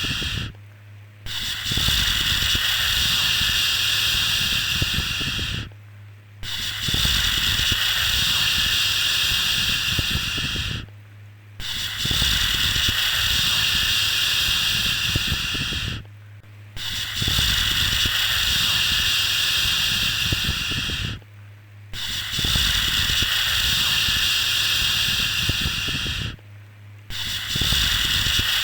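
A long shushing "shhh" sound for soothing a baby, repeated over and over. Each shush lasts about four and a half seconds and is followed by a brief pause before the next one, about every five seconds.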